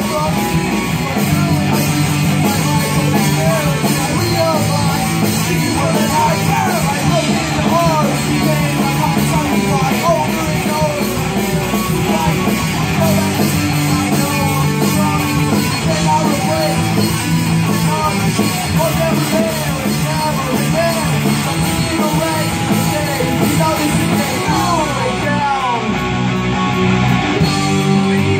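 Loud rock band playing, with electric guitar prominent and many short bent, sliding notes over a steady bass and rhythm.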